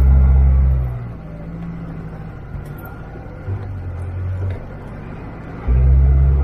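Land Rover 4WD engine working in low gear on a muddy climb, heard from a camera on the bonnet. It is loud at first, eases off about a second in, and pulls hard again near the end.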